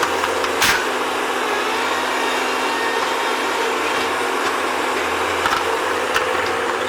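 Bobcat skid-steer loader running steadily, with a few sharp knocks over it; the loudest comes just under a second in.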